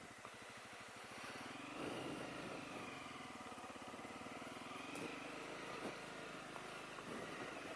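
Honda CRF250L's single-cylinder four-stroke engine running at low trail speed, its revs picking up about a second in and then holding fairly steady, with a couple of short knocks partway through.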